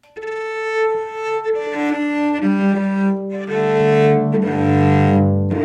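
Cello playing bowed, sustained notes in a slow descending line, settling into fuller low notes from about three and a half seconds in.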